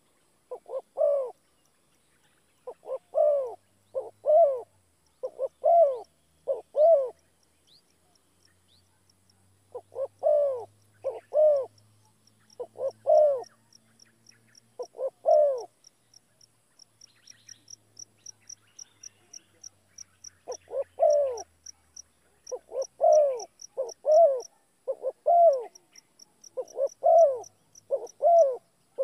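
A bird calls in short repeated notes, in runs of several with pauses between. From about ten seconds in to near the end, a fainter run of quick high-pitched notes, about three a second, goes on behind it.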